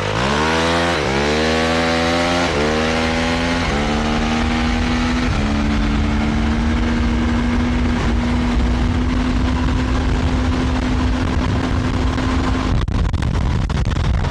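Honda CRF450R dirt bike's single-cylinder four-stroke engine accelerating hard: its pitch climbs and drops back with each of four upshifts in the first five seconds, then holds a steady note at speed before it cuts away near the end. Wind rumble on the microphone underneath.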